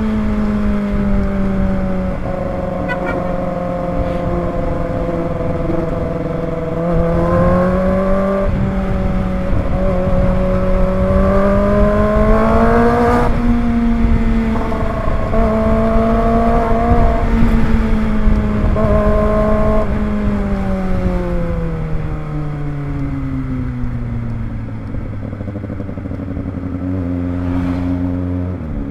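Kawasaki ZX-25R's 250 cc inline-four engine under way, running high in the revs with small climbs and dips, then its pitch falls steadily over the last several seconds as the bike slows, settling low near the end. Wind rumbles on the microphone throughout.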